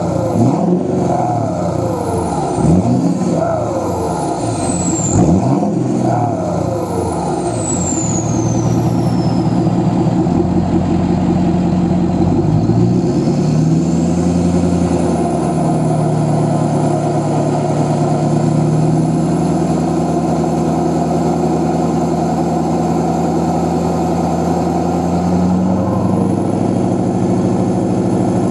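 Ford 6.7 Powerstroke V8 turbodiesel running through a 5-inch Flo-Pro exhaust with an Aero Turbine muffler: several quick throttle blips, each followed by a falling turbo whistle, then the engine is held at raised revs with a steady high whine before dropping back to idle near the end.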